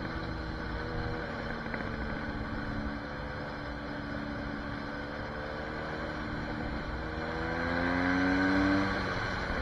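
Small single-cylinder dirt bike engine running steadily, then revving up in pitch near the end before easing off.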